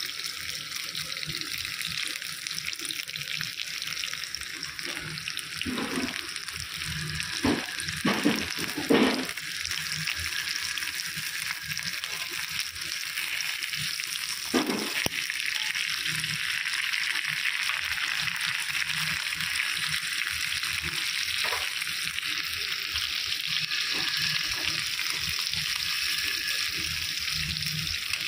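Chicken pieces shallow-frying in a little oil in a non-stick pan, nearly cooked: a steady sizzle. A few knocks of tongs against the pan come about eight to nine seconds in and once more near fifteen seconds.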